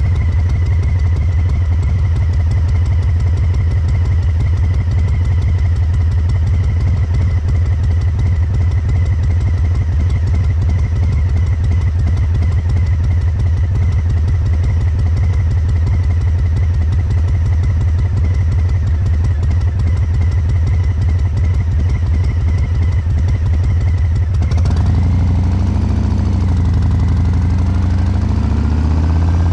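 Harley-Davidson Breakout 114's Milwaukee-Eight 114 V-twin running through Cobra Neighbor Hater slip-on mufflers, idling with a loping three-beat cadence from an injection tune. About 24 seconds in, the revs rise and fall.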